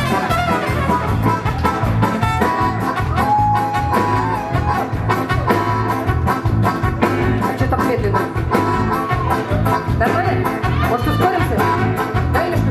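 Live rock band playing: a gliding lead melody over a steady bass and drum beat.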